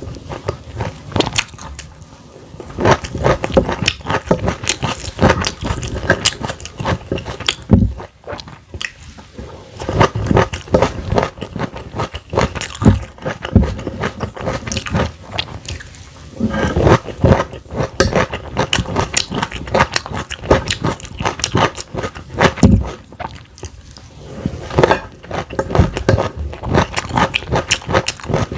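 Close-miked chewing and biting of food, a dense run of wet crunches and clicks in bouts with brief pauses between mouthfuls.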